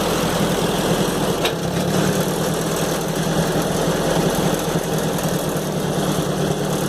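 1955 Ford 960 tractor's four-cylinder engine running steadily with its muffler removed, as the tractor backs away from the detached loader. A single brief click sounds about a second and a half in.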